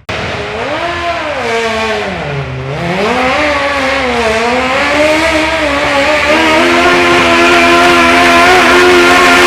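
Modified pulling garden tractor's engine revving up and down a few times, then climbing to high revs and holding there steadily, growing louder.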